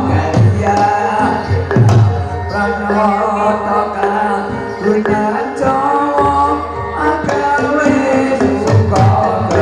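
Jathilan accompaniment music: kendang hand drums beating a steady pattern under gamelan-style melodic instruments, with singing.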